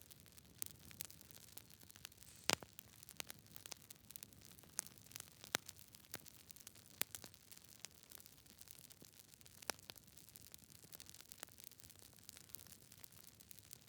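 Campfire crackling quietly: irregular sharp pops and snaps of burning wood over a soft low hiss, with one louder pop about two and a half seconds in.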